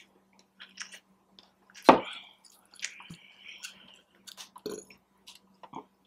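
Close-up eating sounds: a person bites and chews crunchy food in short, irregular crunches, the loudest about two seconds in. A faint steady hum runs underneath.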